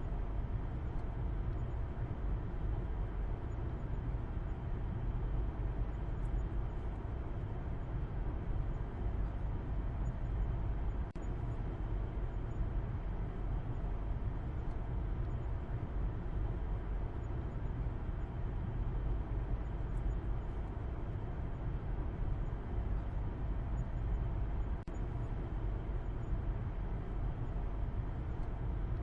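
A car driving steadily: a continuous low rumble of road and engine noise with no change in pace.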